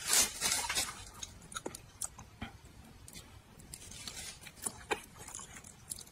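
A person eating with close, wet mouth sounds: chewing, with scattered short lip smacks and clicks. The chewing is loudest in the first second.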